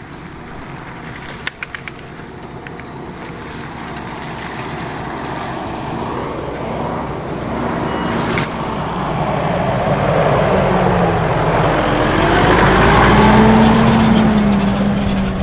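A motor vehicle's engine drawing closer and growing steadily louder, its pitch wavering up and down, loudest near the end. Underneath is the steady rush of wind and tyre noise, with a few sharp clicks about a second and a half in.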